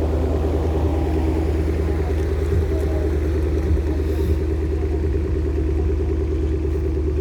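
2012 Porsche Panamera Turbo S's twin-turbo V8 running at a steady fast idle during its cold-start warm-up.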